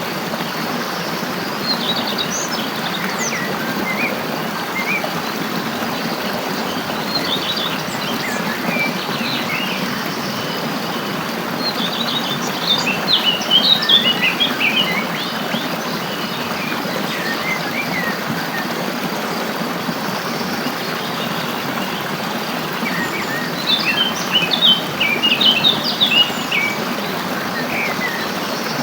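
Wild songbirds chirping and calling in scattered short notes, busiest in two flurries about halfway through and near the end, over a steady rushing noise.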